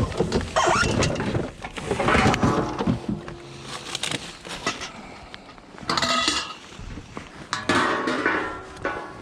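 Scrap metal and junk clattering and clinking as it is handled and dropped, in several separate bursts with a short metallic ring.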